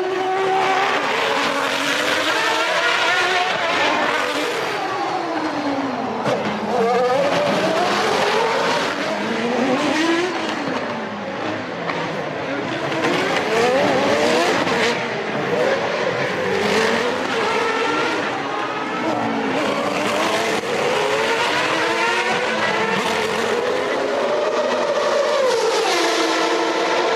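1993 Formula One cars' engines at high revs, several cars overlapping, their pitch repeatedly rising and falling as they accelerate and shift down through the gears.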